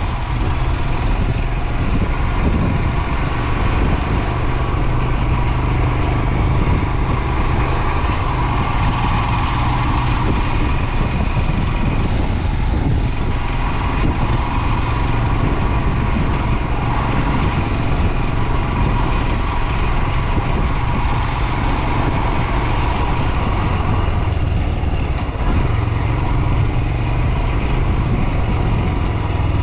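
Royal Enfield Himalayan's 411 cc single-cylinder engine running steadily under way, easing off briefly a couple of times.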